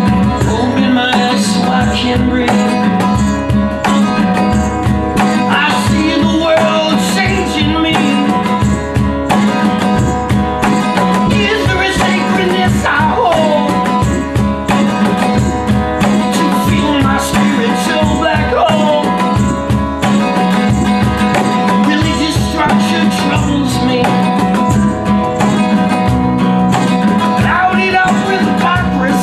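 Band music: strummed acoustic guitar over a steady beat, with a gliding lead melody line coming in and out.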